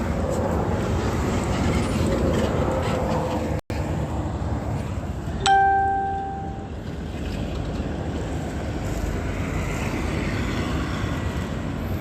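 Steady outdoor street background noise. About five and a half seconds in comes a sudden loud pitched tone that rings and fades away over about a second.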